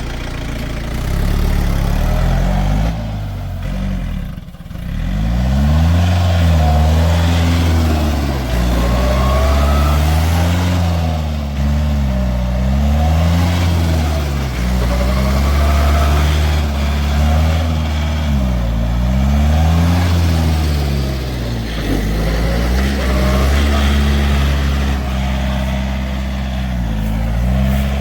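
Yanmar 4WD tractor's diesel engine running under load, its note repeatedly dipping and rising every few seconds as the tractor is driven and changes speed.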